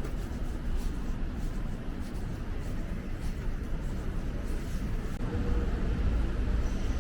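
City street traffic: a constant low rumble of vehicles, growing louder about five seconds in as a vehicle passes close by.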